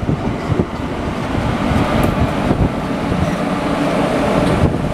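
WAP-4 electric locomotive passing close at speed at the head of an express train: rumble of wheels on the rails and the locomotive's running noise, with a few sharp clacks.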